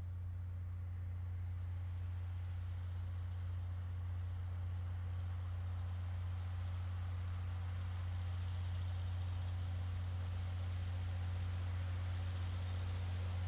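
Diesel engine of a narrow-gauge sugar cane train locomotive running with a steady low drone, while a rushing noise of the train grows slowly louder.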